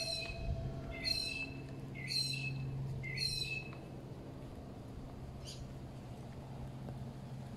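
A bird calling four times about a second apart, each short call rising at its start, then one fainter call a couple of seconds later, over a low steady hum.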